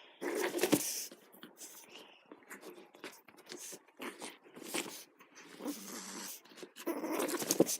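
A pet dog making noises during rough play, mixed with irregular scuffling and sharp clicks, loudest about a second in and again near the end.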